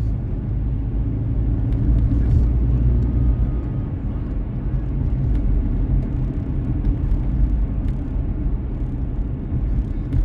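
Car driving along: a steady low rumble of engine and tyre noise that does not rise or fall.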